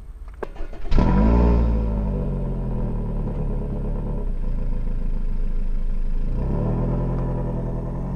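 A Toyota RAV4 SUV's engine starts with a sudden loud surge about a second in, its pitch falling as it settles into a steady run. Near the end it revs up again as the SUV pulls away. A short click comes just before the start.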